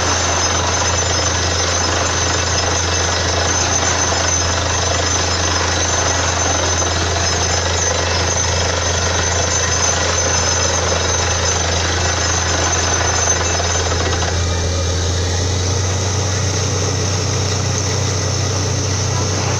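Borewell drilling rig running loudly and steadily, a dense hammering rattle over a low engine hum. The rattle eases somewhat about three-quarters of the way through while the engine hum carries on.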